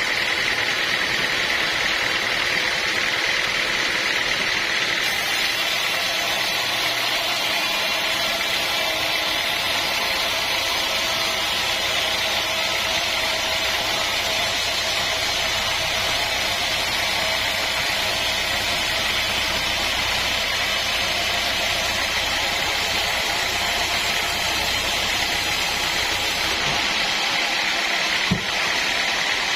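Sawmill machinery running steadily, a constant mechanical din with a high whine-like hiss, and one short sharp knock near the end.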